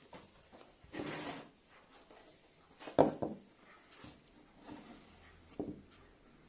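Wooden pieces and tools handled on a workbench: a short scrape about a second in, then a few light knocks, the sharpest about halfway.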